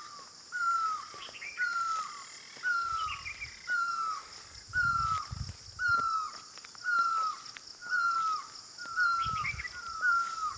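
A bird repeating one short, downward-sliding call about once a second, over a steady high buzz of insects, with a few other birds calling briefly and a couple of low rumbles.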